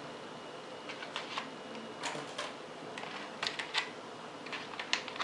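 Scattered light clicks and taps of batteries being put into the plastic transmitter of a small RC plane.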